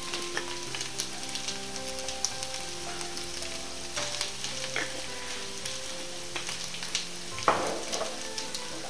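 Sliced boiled potatoes and onions frying in a pan: a steady sizzle with scattered crackles, and a louder stir or scrape about seven and a half seconds in.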